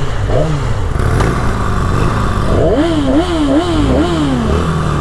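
Motorcycle engine running with a steady low rumble. Its pitch rises and falls several times in quick succession about halfway through, as the throttle is blipped.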